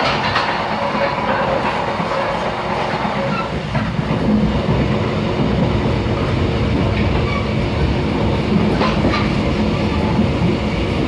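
Running noise heard inside a moving Mugunghwa-ho passenger train car: a steady rumble of wheels on the rails with scattered clicks over rail joints. The low rumble grows heavier about four seconds in.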